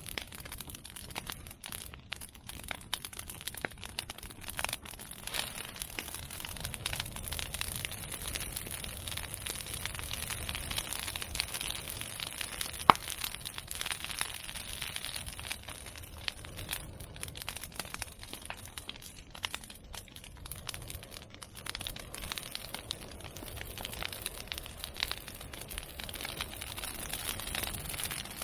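Bonfire of cut bamboo and chestnut prunings crackling steadily with dense, irregular small pops. There is one sharp, much louder pop about halfway through.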